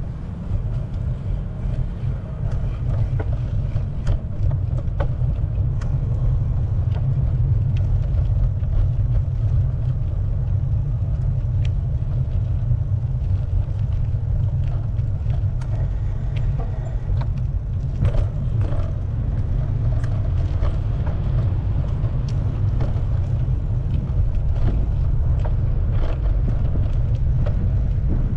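Steady low rumble of wind buffeting the microphone while cycling, with scattered small clicks and ticks.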